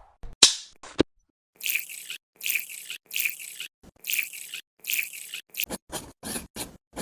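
A few sharp knocks, then a run of even scraping or brushing strokes, about one every three-quarters of a second. It ends in a quicker series of short taps.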